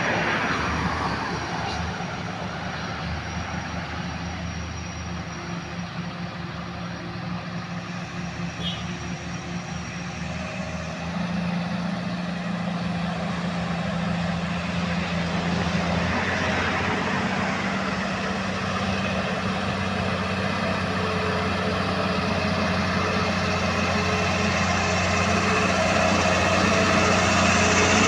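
Laden Mitsubishi Fuso truck's diesel engine working up a steep climb. The engine gets louder about eleven seconds in and keeps building toward the end as the truck comes closer.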